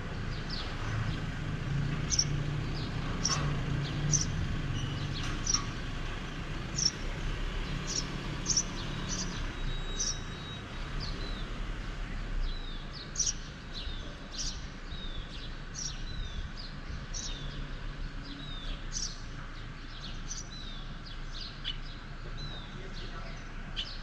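Small birds chirping over and over, each call a short high note sweeping downward, coming more thickly in the second half. A low steady hum sits underneath for the first half.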